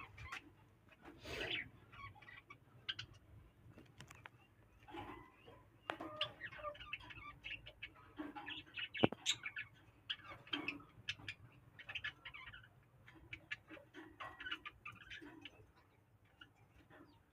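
Small cage birds chirping in short, scattered calls, mixed with many brief clicks.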